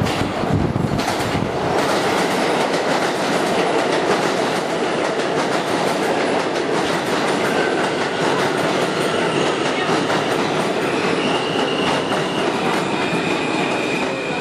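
Subway train running on its rails, a loud steady rumble and clatter of the cars. From about ten seconds in, thin high wheel squeals join in.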